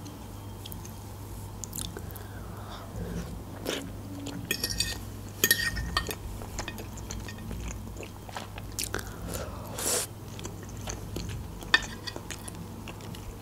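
Close-miked chewing of stuffed pepper and minced-meat filling, with scattered light clicks of a fork against the plate.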